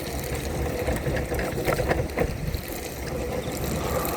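Electric wheelchair rolling over wet pavement in the rain: a steady hum and low rumble of motor and tyres on water, with a few short knocks from bumps near the middle.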